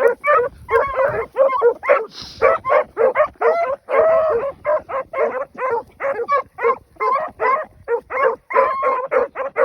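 A pack of rabbit hounds giving mouth as they run a rabbit's track: several dogs barking over one another, about three or four barks a second, with a few drawn-out bawls mixed in.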